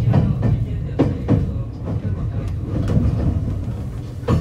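Running noise heard inside a JR West 225-5100 series electric train: a steady low rumble with a few sharp clicks of wheels passing over rail joints or points.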